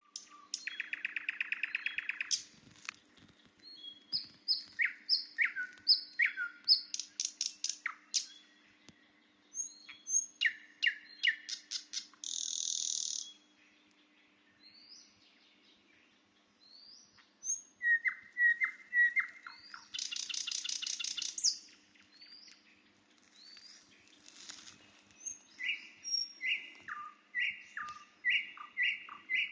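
Nightingale singing: varied phrases of rapidly repeated clicks, trills, whistled notes and harsh rattles, with short pauses between phrases.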